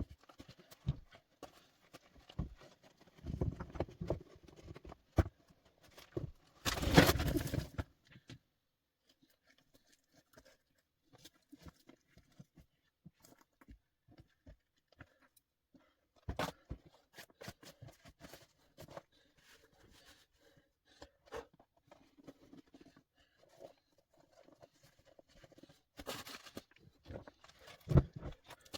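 Scattered small knocks and clicks with rustling, broken by a louder burst of rustling or scraping about seven seconds in and another near the end, followed by a dull thump.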